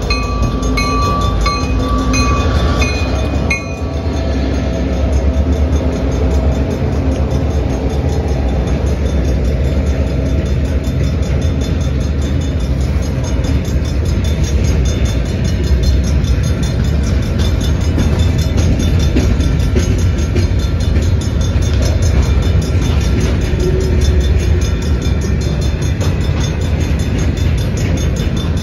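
A heavy diesel freight train passing close by. An EMD GP38-2 locomotive goes by first, with a ringing that repeats about twice a second over the first few seconds. Then a long string of hopper and gondola cars rolls past with a steady heavy rumble of steel wheels on the rails.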